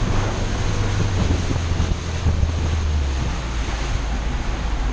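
Boat engine running with wind blowing on the microphone and water rushing past; the engine's low hum drops in pitch about three seconds in.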